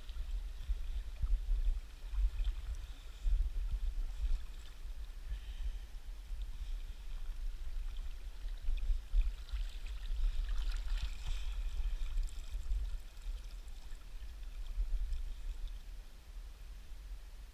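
Wind buffeting the microphone in an uneven low rumble, over the faint steady rush of river water.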